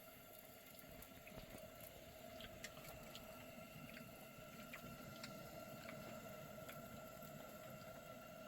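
Near silence: a faint steady background hiss with a few small ticks.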